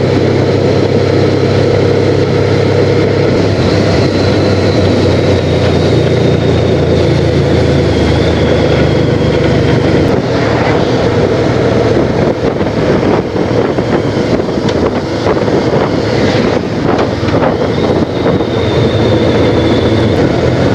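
Honda Crosstourer's V4 engine running on the move, with steady wind rush over the action camera's microphone. The low engine note drops away about halfway through, leaving mostly wind and road noise.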